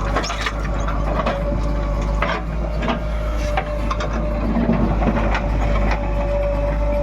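JCB 3DX backhoe loader's diesel engine running with a steady whine, and repeated metallic clanks and knocks from the machine working.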